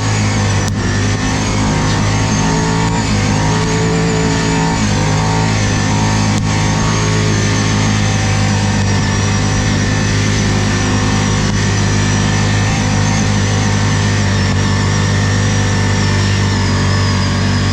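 ATV engine running steadily at a constant pitch, with a thin high whine riding over it.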